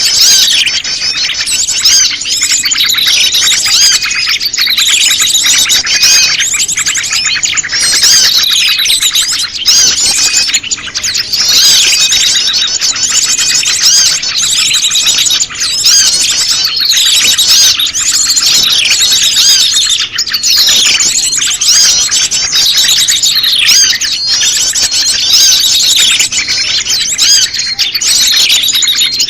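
Recorded bird-lure track of prenjak lumut (a small Indonesian warbler) mixed with a noisy flock of small birds: many high, quick chirps and short falling twitters overlapping without pause, loud and steady throughout.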